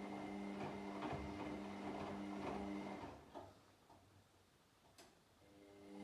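Washing machine running a wash cycle: the motor hums and the drum tumbles the laundry in a regular rhythm. About halfway through the drum stops for about two seconds, with a single click, then starts turning again near the end.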